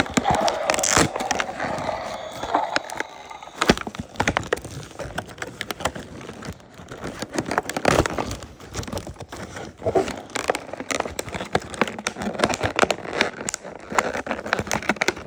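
Toy packaging being handled and opened: irregular crackling, scraping and clicks from plastic and cardboard as the toy is worked out of its box.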